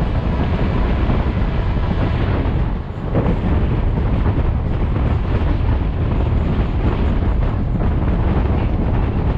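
Train running at speed, with heavy wind buffeting the microphone; the noise dips briefly about three seconds in.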